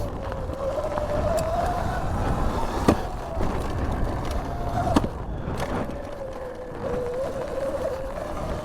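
2019 Surron electric dirt bike riding, its motor whine rising and falling in pitch with the throttle over a low rumble. Sharp knocks come about three and five seconds in.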